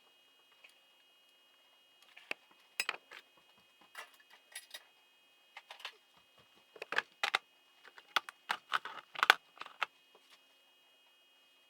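Metal hand tools and engine parts clinking and clicking as they are handled and set down during engine disassembly: scattered sharp clicks, busiest between about seven and nine and a half seconds in.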